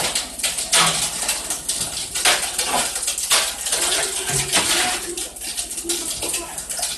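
Shovels and metal tools scraping and clinking through freshly poured wet concrete in a foundation formwork, in a run of irregular strokes.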